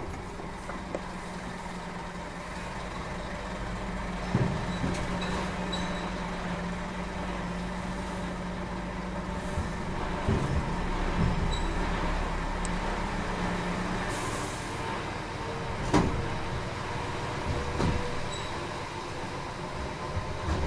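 Scania truck running with a steady low hum and several clunks and knocks. The hum stops about fourteen seconds in, just as a short hiss of air sounds.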